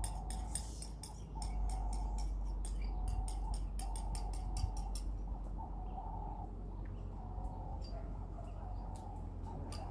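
A bird calling over and over, a series of short, even notes about a second apart, with a quick run of sharp clicks through the first half.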